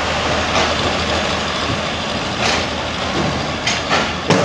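Passenger train coaches rolling past along the platform as the train pulls out of the station, a steady rail rumble broken by a few sharp wheel clacks. The loudest clack comes near the end.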